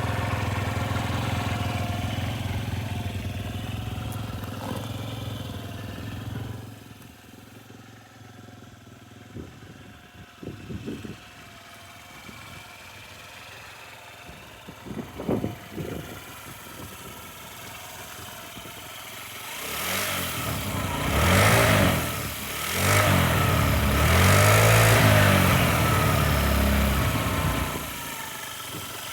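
Honda Zoomer scooter's single-cylinder four-stroke engine idling steadily, then dropping to a much lower level about six seconds in with a few short bursts. From about twenty seconds it is revved, its pitch rising and falling.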